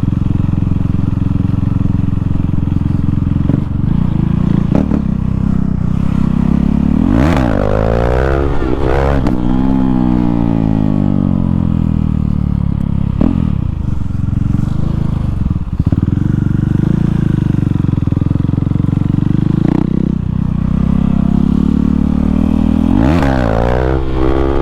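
KTM Duke 390's single-cylinder engine running loud without an exhaust muffler, revving up and down twice, about a third of the way in and again near the end.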